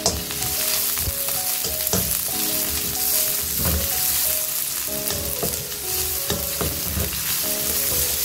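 Sliced onion, garlic and spring onion sizzling in hot oil in a wok as a wooden spatula stirs and scrapes them, with irregular knocks of the spatula against the pan. Background music with a simple melody plays underneath.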